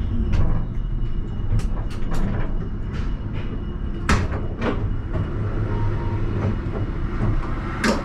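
Alstom Citadis tram running on rails, heard from the driver's cab: a steady low rumble with a faint high whine, broken by irregular sharp clicks and knocks from the wheels on the track. The loudest knocks come about four seconds in and again near the end.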